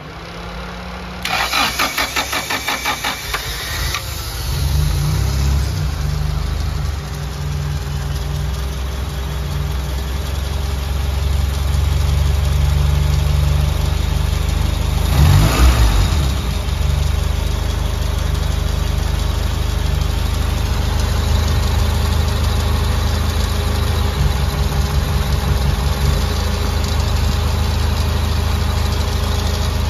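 Honda Accord Maestro's carbureted four-cylinder engine cranking on the starter for about three seconds before it catches, then running and settling to an idle, with one brief rev about halfway through. The car is described as hard to start, even when cold.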